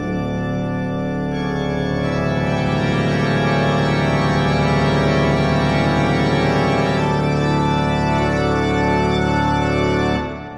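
Background music: a sustained organ chord that comes in at once, holds for about ten seconds with a few notes shifting, and drops away near the end.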